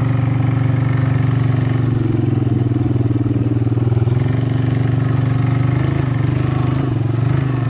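Harley-Davidson Nightster's V-twin engine running steadily and loudly at an even speed, with a slight dip in pitch near the end.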